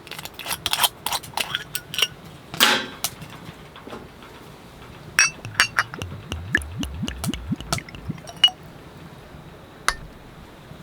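Glass and bottle clinking, then soju glugging out of a bottle into a glass in short gurgles that rise in pitch as the glass fills, with a last clink near the end.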